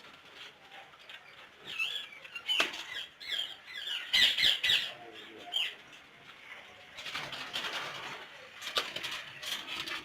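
Indian ringneck parakeets calling in short squawks and chirps, with wings flapping and a few sharp knocks.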